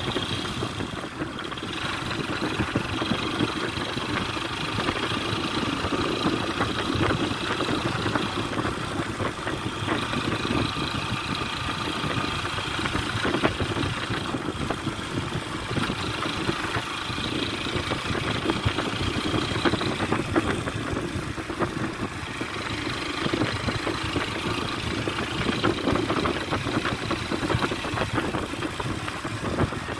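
A motor vehicle's engine running steadily, with rattling and knocks throughout.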